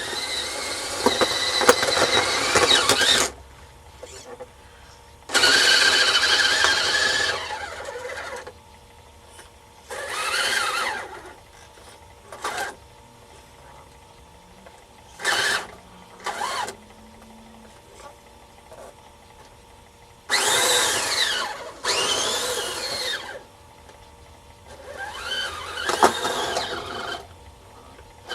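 Radio-controlled Blizzard model driving in short bursts: a whining drive that rises and falls in pitch, with squealing running gear. About seven spurts of one to three seconds each are separated by pauses.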